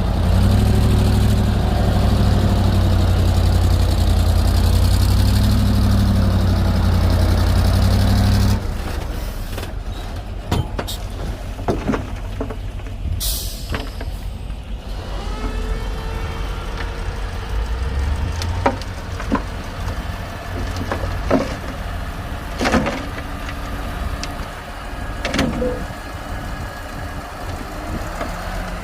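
Komatsu D58P crawler bulldozer's diesel engine running loud and steady, then dropping suddenly to a lower level about eight seconds in. After that it runs quieter with scattered knocks, a short hiss, and the engine revving up again about fifteen seconds in.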